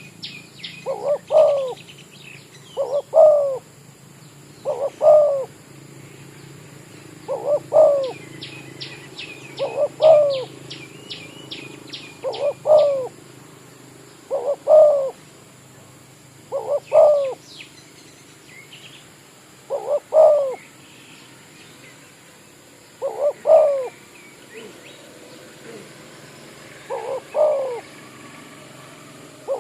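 Spotted dove (tekukur) cooing: a short, rolling phrase of a few notes, repeated about every two to three seconds.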